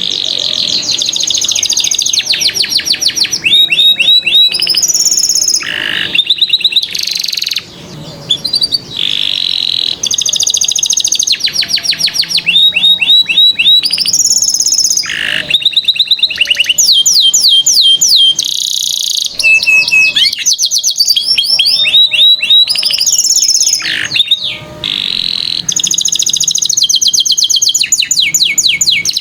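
Domestic canary singing a long, continuous song: fast trilled rolls of repeated high notes alternating with held whistles, the phrase changing every second or two.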